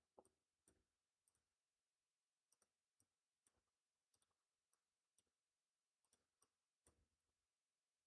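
Near silence with a dozen or so faint, scattered computer mouse clicks.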